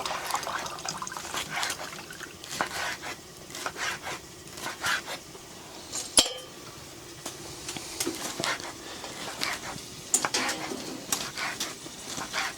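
Metal camp cookware and utensils clinking and scraping, with one sharp ringing clink about six seconds in.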